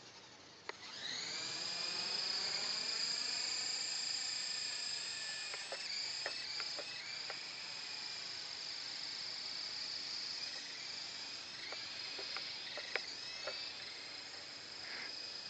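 Small RC helicopter's motor and rotors spinning up about a second in, then running with a steady high whine, picked up by a phone strapped to the helicopter. A few short clicks come through along the way.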